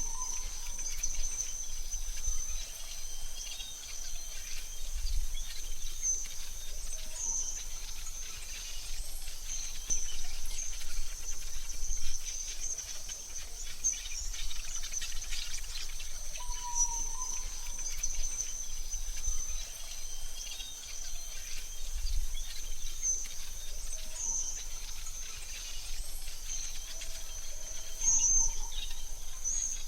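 AI-generated forest ambience: a continuous high-pitched insect trill, with a few short bird calls scattered through it and a low rumble underneath.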